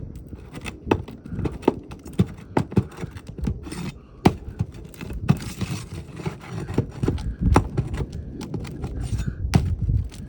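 Steel flat bar prying nails out from under asphalt roof shingles: irregular scraping with many sharp metal clicks and knocks.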